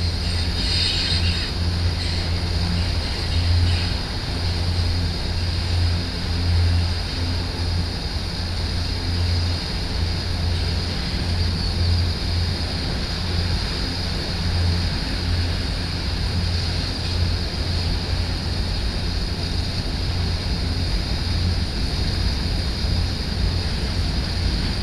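Long freight train of autorack cars rolling past at a distance: a steady low rumble of wheels on rail, with a brief faint wheel squeal in the first couple of seconds.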